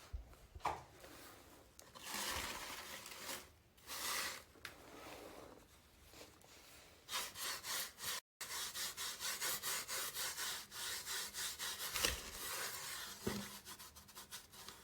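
Paper of an old book being handled: rustling swishes, then a quick series of short rubbing strokes, about two a second, in the second half.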